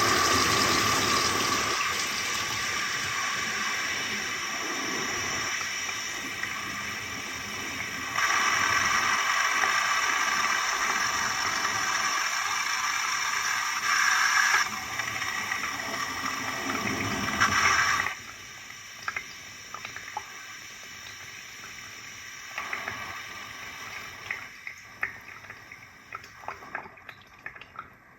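Water running steadily. It gets louder about a third of the way in, eases, swells once more, then drops off sharply to a quieter trickle with scattered drips near the end.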